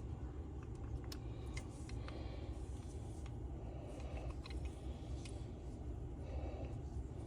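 Scattered light clicks and taps of small engine parts and hand tools being handled, over a steady low hum.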